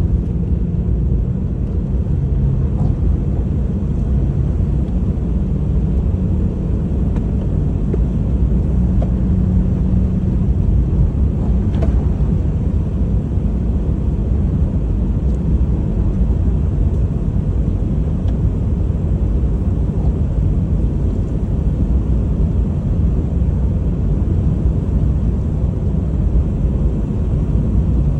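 Honda HR-V driving: a steady low rumble of road and engine noise that holds even throughout.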